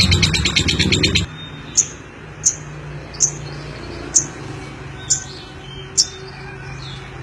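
Lovebird singing: a loud, fast chattering trill (the 'ngeklek') that cuts off abruptly about a second in, followed by six short, sharp high chirps spaced under a second apart.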